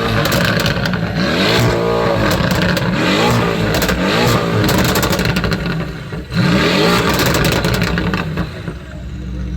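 A car engine being revved over and over, its pitch climbing and dropping several times, with sharp crackles between the revs. It eases off near the end.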